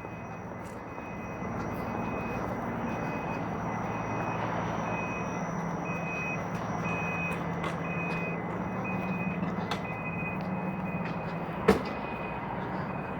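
A vehicle's back-up alarm beeping steadily, a little under two beeps a second, over a low engine hum and street traffic. A single sharp clack sounds near the end.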